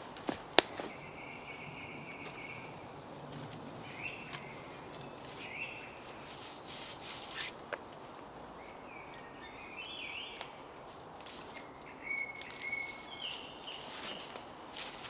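Birds calling in woodland: short chirps and a held whistle-like note, repeated at intervals. A sharp click about half a second in, with a few fainter clicks and knocks later.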